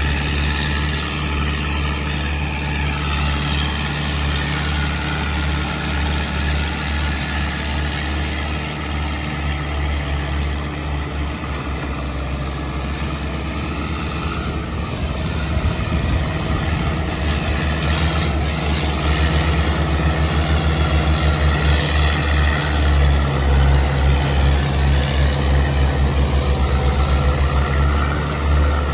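Massey Ferguson tractor engine running steadily with a low throb. About two-thirds of the way through it grows louder, with a strong regular pulsing, as it works harder.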